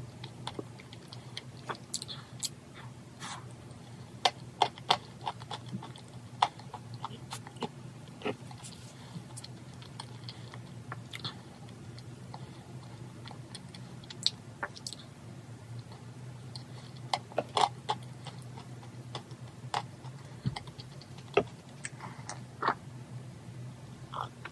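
Close-up mouth sounds of a person eating chocolate cake with a fork: chewing and biting with many short, sharp clicks and smacks.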